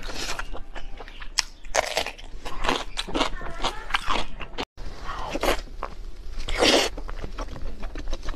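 Close-miked eating of braised sheep brains: wet chewing and lip smacking with many short crunchy clicks and tearing of the soft meat, broken by a brief silent gap just past halfway.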